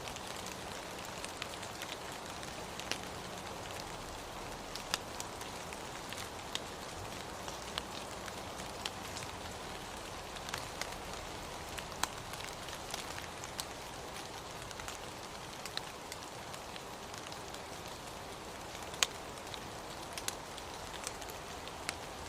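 Steady rain falling, with scattered sharp drops ticking on a hard surface.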